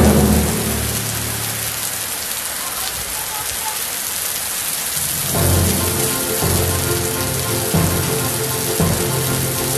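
Heavy rain pouring down, a steady even hiss. About halfway through, background music comes back in over it.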